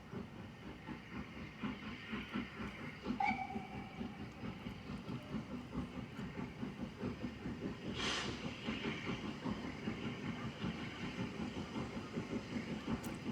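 A train running on a heritage railway line, with a fast, steady rhythmic beat. A brief high tone sounds about three seconds in, and a short hissy burst about eight seconds in.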